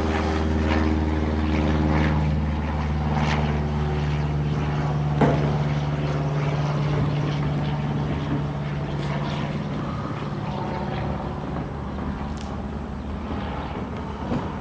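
Cessna 152's piston engine and propeller droning overhead in a steady low tone that slowly fades as the plane flies off. A brief sharp knock about five seconds in.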